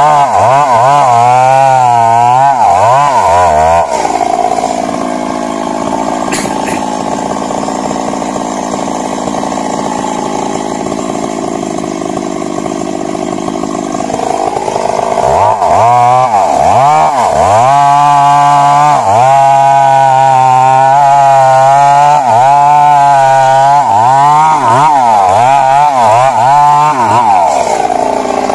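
Stihl MS 382 two-stroke chainsaw running hard, its engine speed rising and falling repeatedly, then holding steadier and a little quieter for about ten seconds before the rising and falling returns.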